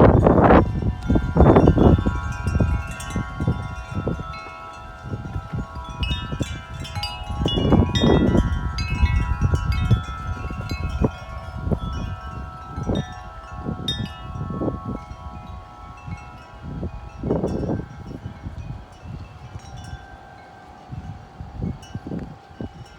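Wind chimes ringing continuously in strong wind, many tones struck over and over and left to ring. Gusts rumble on the microphone, loudest at the start and swelling again twice.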